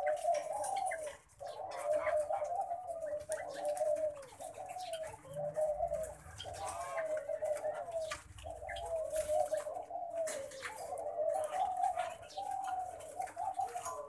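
Low, wavering bird calls repeating almost without a break, with a short pause about a second in.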